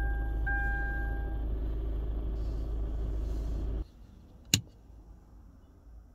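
Car engine idling, heard inside the cabin, with a warning chime beeping in a two-tone pattern until about a second and a half in. The engine sound stops abruptly near four seconds, then comes one sharp click as the push switch on a dashboard battery unit is pressed.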